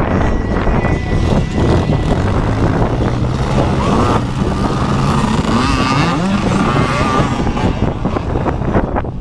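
Motocross bikes' engines running on the track, one climbing in pitch as it revs up about halfway through, with rough buffeting noise over them.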